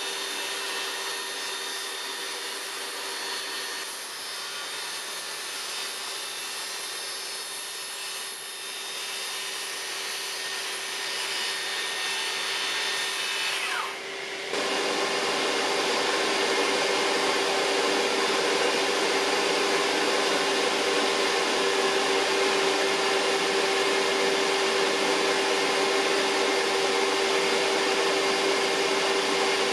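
Electric circular saw motor running at a steady high whine. About halfway through it dips briefly, then runs again, louder.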